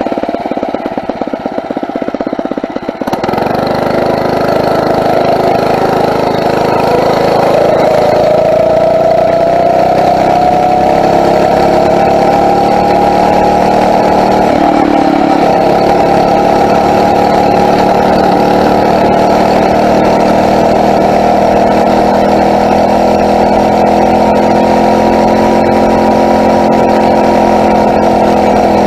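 Small four-stroke engine of a Phatmoto motorized bicycle running under way. It chugs roughly for the first few seconds, then the revs climb over several seconds and hold steady at cruising speed, with a brief dip about halfway through.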